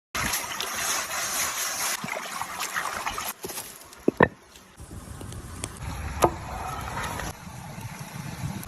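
Meat sizzling on a hot stone slab, a crackling hiss for the first three seconds, then a few sharp metallic clinks and a steady low rumble.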